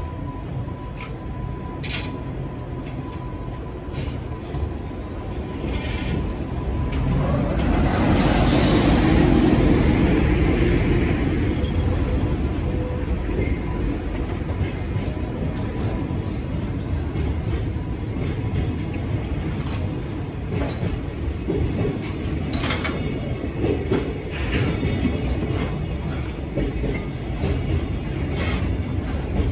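Container freight wagons rolling past close by, their wheels clacking over rail joints, with a thin steady squeal in the first several seconds. The rumble swells to its loudest about eight to eleven seconds in as a second freight train passes on the next track, then settles back to the steady rolling of the wagons.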